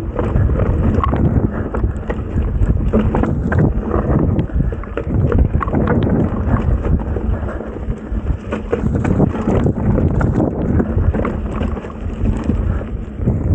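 Mountain bike riding down a rough dirt trail: wind buffeting the microphone, tyres rolling over dirt and stones, and a constant run of small knocks and rattles from the bike over the bumps.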